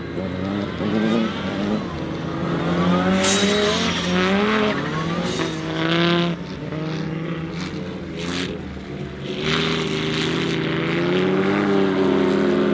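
Audi Sport Quattro S1 E2's turbocharged inline five-cylinder engine being driven hard, its pitch climbing and dropping again and again through the gears. Short, sharp bursts of noise fall between the rises.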